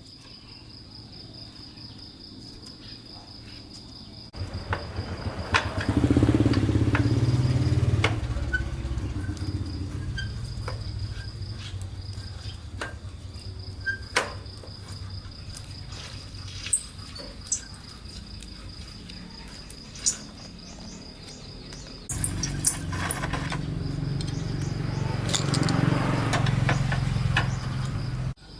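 Insects chirping in a steady, fast-pulsing high trill throughout. A louder low mechanical rumble comes in twice, once about four seconds in and again near the end, with scattered sharp clicks and knocks.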